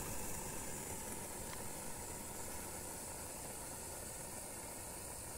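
Steady hiss from a small propane-fired, vertical-boiler live steam locomotive, easing off slightly over the first couple of seconds and then holding even.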